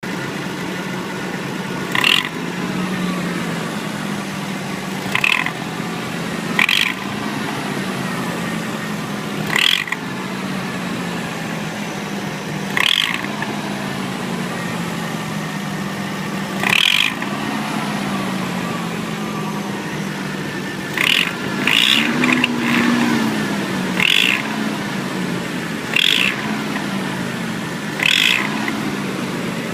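Nissan 300ZX twin-turbo V6 running at idle. Short rattles break through about every two to four seconds, a few with a slight rise in engine speed. The rattle comes from behind the engine on the driver's side, and its cause is unknown to the owner.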